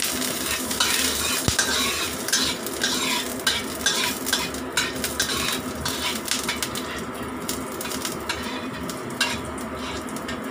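Ginger slices sizzling in hot oil in a wok, stirred with a spatula that scrapes and clicks against the pan. The sizzle grows fainter after about seven seconds.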